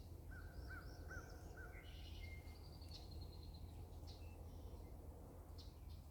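Small birds calling in the background: a run of four short repeated notes, then higher chirps and a brief trill, over a faint low outdoor rumble.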